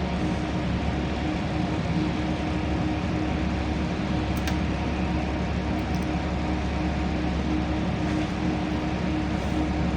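Steady cabin noise of a LiAZ-5292 city bus under way: engine and drivetrain hum with a constant low rumble and an even tone held throughout.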